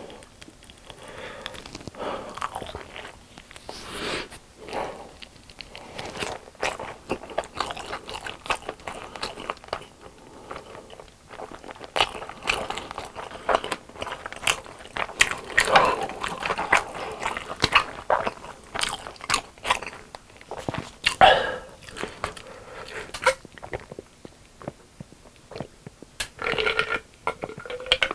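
Close-miked biting and chewing of food, with repeated crisp crunches: a person eating.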